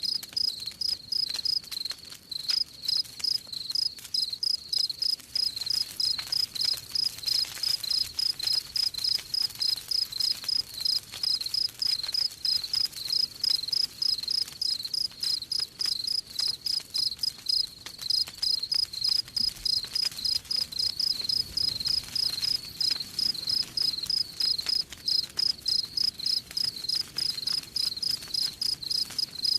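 Crickets chirping in a steady, even rhythm of about three chirps a second, over the faint crackle of a campfire.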